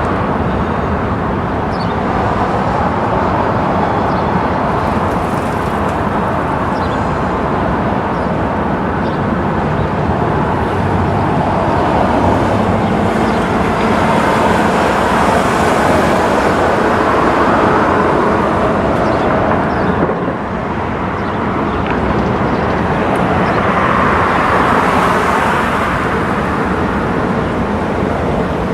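Freight train rolling past: a steady, loud rumble and rail noise from the passing cars.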